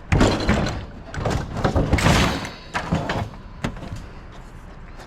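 A run of knocks, thuds and clattering scrapes from hard objects being handled, in several bursts over the first three and a half seconds.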